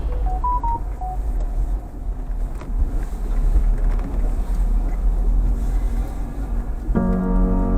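Off-road vehicle's engine running as it drives on Cordiant Off Road tyres, a steady low rumble. Background music comes back in near the end.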